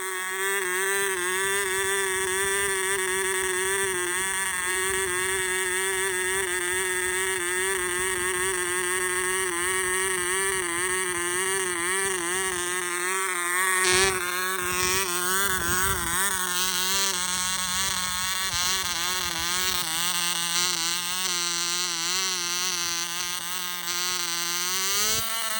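1954 O.K. Cub .049 cubic inch (0.8 cc) two-stroke model diesel engine running at high speed with a steady buzz whose pitch wavers slightly. There is a single sharp click about halfway through, and the pitch rises briefly at the very end.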